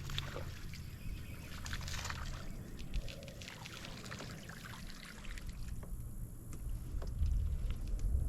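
Water trickling and splashing against a kayak, with small drips and clicks, busiest in the first few seconds. A low rumble grows louder near the end.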